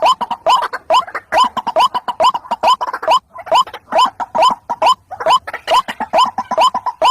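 White-breasted waterhen calling, a fast, steady series of short rising notes, about two or three a second: the repeated ruak-ruak call used as a lure to draw waterhens in.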